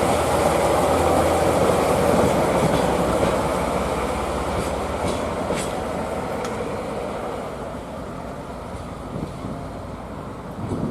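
A train running past on the rails, its noise steadily growing fainter as it moves away, with a few faint sharp clicks midway.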